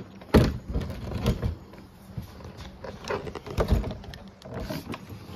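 Irregular knocks and clatter of a homemade 1-inch PVC kayak cart being handled and fitted into a kayak's scupper holes, with a few heavier thuds, the loudest about half a second in and near four seconds.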